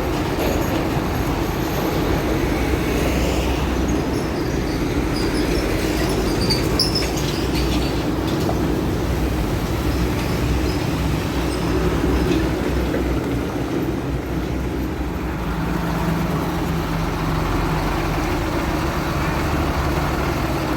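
Concrete mixer truck running: a steady, loud heavy diesel rumble with a mechanical clatter.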